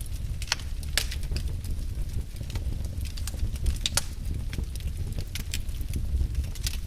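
Wood fire burning in a fireplace: a steady low rumble of flame with irregular crackles and sharp pops of burning logs, a few louder snaps among them.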